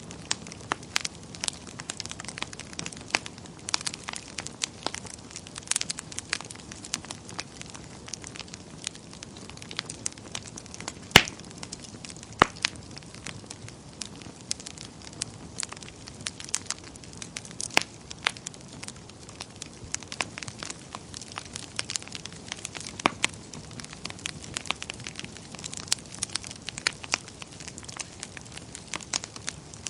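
Wood fire crackling in a fireplace: a steady low hiss with frequent irregular sharp pops, one louder pop about eleven seconds in.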